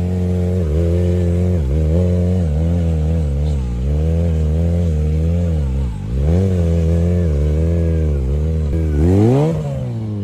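Motorcycle engine running and being revved, its pitch dipping and climbing again every second or so, with a quick sharp rev near the end.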